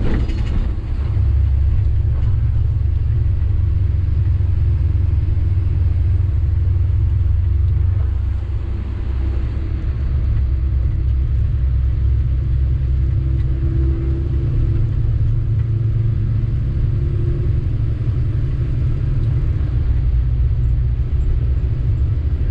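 Sany 6x4 dump truck's diesel engine and road noise while driving: a steady low rumble that eases slightly about eight seconds in.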